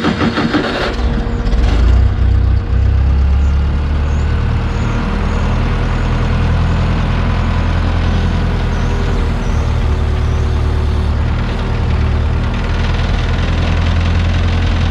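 New Holland L775 skid steer's gasoline engine starting up, choppy for the first second, then running steadily.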